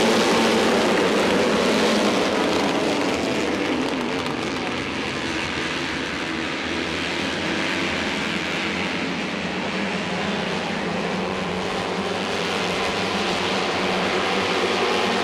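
Steady roar of racing motorcycle engines at a race circuit, a little louder in the first few seconds and again near the end.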